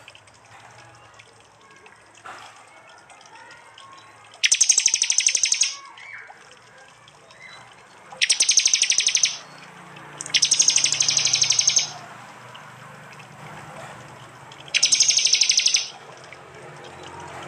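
Prinia (prenjak) calling in four loud, rapid-fire bursts of fast repeated high notes, each about a second long and a few seconds apart: the 'tembakan' call prized as training material for songbirds.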